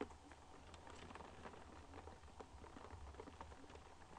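Raindrops tapping faintly and irregularly on a window pane, one sharper tap right at the start, over a low steady hum.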